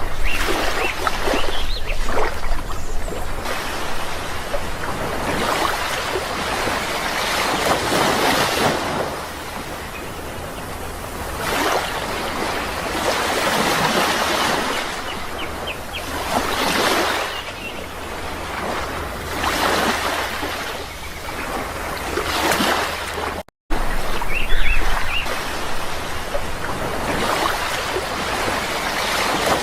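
Sea waves breaking and washing on a shore, swelling and ebbing every few seconds. There are a few short bird chirps near the start and again about 25 seconds in. The sound cuts out for an instant about 23 seconds in.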